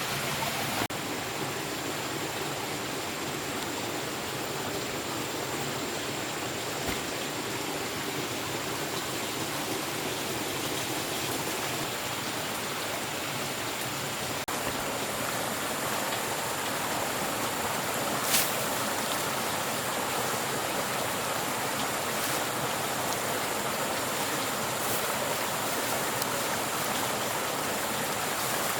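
Steady hiss of water, with one sharp click about eighteen seconds in and a few fainter ticks after it.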